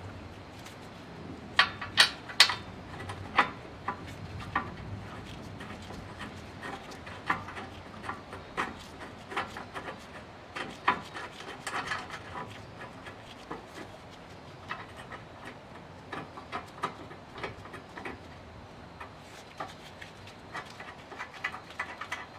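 Irregular sharp clicks and knocks scattered throughout, with the loudest few close together about two seconds in, typical of hands and tools handling parts.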